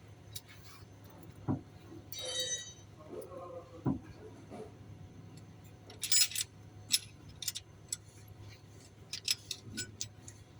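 Metal hand tools clinking and tapping on metal in irregular sharp clicks, with one short ringing note a little after two seconds in.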